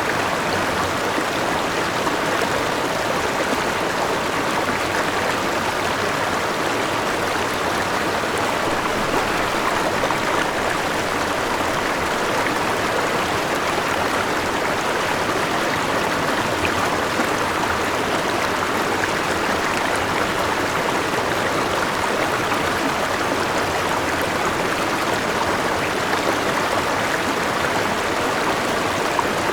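Forest river and small waterfall: water running and splashing over rocks, a steady, even rush.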